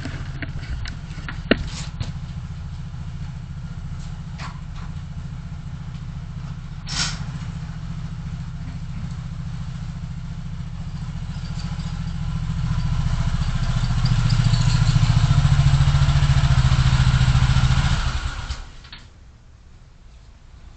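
Car engine and road noise heard inside the cabin through a dashcam, with a few sharp clicks early on. It grows louder from about twelve seconds in, holds there for a few seconds, then drops off sharply near the end.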